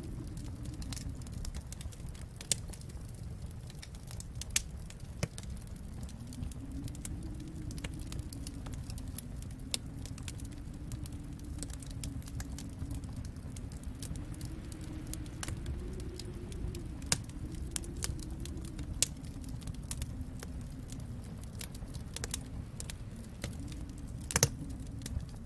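Wood fire crackling in a fireplace: a steady low rumble under frequent small crackles, with a few louder pops.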